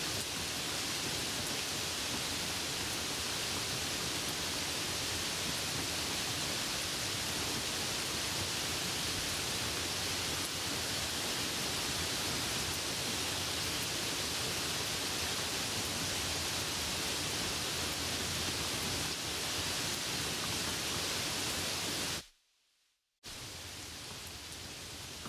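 Steady hiss of rain and wet-road noise from a car driving in the rain. About 22 seconds in it cuts out to silence for about a second, then comes back a little quieter.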